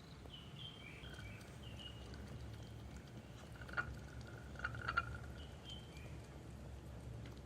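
Short high bird chirps over a steady low rumble, with three sharper, louder chirps a little past the middle.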